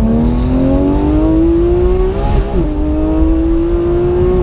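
Porsche 991 GT3's flat-six engine, with an upgraded exhaust, pulling hard under acceleration. Its pitch climbs steadily, then drops sharply as it shifts up about halfway through, then climbs again before a second upshift at the end.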